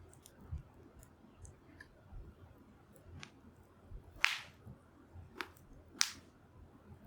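Wood campfire crackling, with a few sharp pops, the loudest about four and six seconds in.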